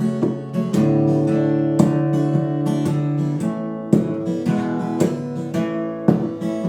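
Acoustic guitar strumming chords for a song's intro, each stroke left to ring before the next.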